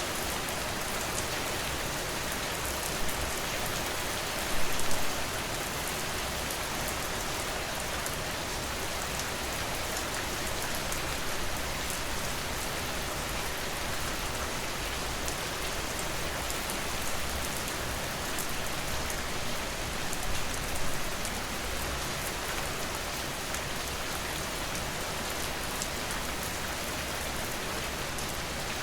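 Steady rain falling on a surface, an even hiss of many drops with fine individual ticks, and a few brief louder spatters about 3, 5 and 20 seconds in.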